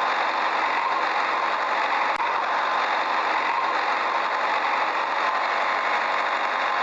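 A steady, unchanging engine-like running noise, with one short click about two seconds in.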